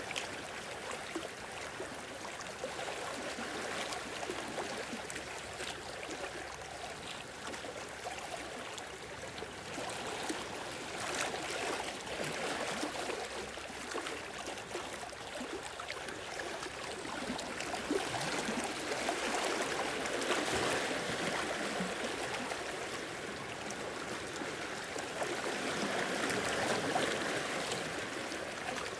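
Sea waves washing in and draining back, a steady rush and gurgle of water that swells louder a few times as bigger waves come in.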